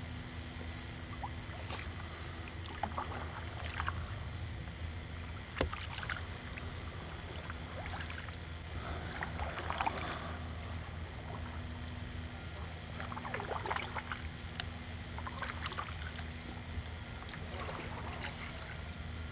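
Canoe paddles dipping and pulling through the water in irregular strokes every few seconds, with a single sharp knock about five and a half seconds in, over a steady low hum.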